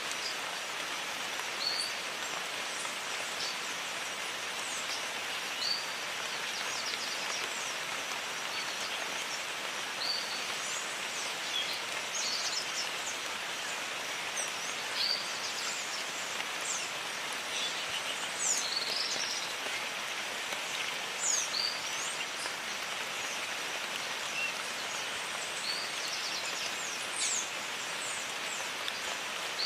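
Steady rain falling on jungle foliage, an even hiss throughout, with many short high bird chirps and whistles calling over it every second or two.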